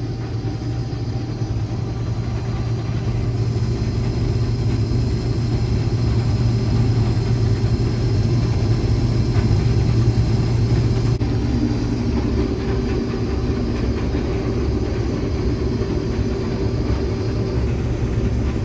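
Combine harvester running steadily while cutting wheat: a constant low engine and machinery drone, changing slightly in tone about eleven seconds in.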